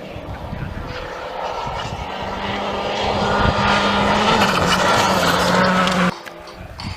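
Rally car engine running hard at high revs, getting louder as the car approaches, then cutting off suddenly about six seconds in.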